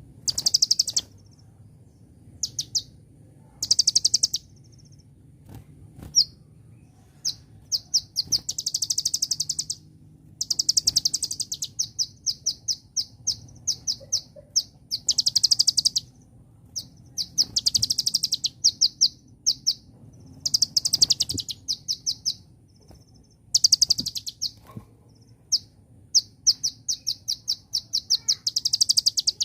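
Kolibri ninja (a sunbird) singing a high-pitched song of fast, clicking trills and chatter, delivered in phrases of one to two seconds separated by short pauses.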